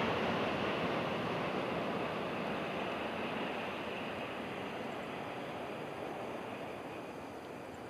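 Shinkansen bullet train running past on an elevated viaduct: a steady rushing noise that fades gradually as the train moves away.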